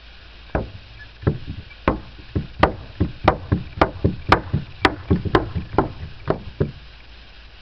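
Fireworks going off in a rapid run of sharp bangs, about twenty in six seconds, roughly three a second.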